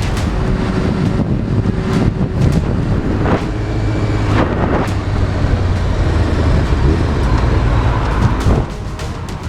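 Motor vehicle engine running with wind noise on the microphone, with a few sharp knocks through it. The level falls away sharply near the end.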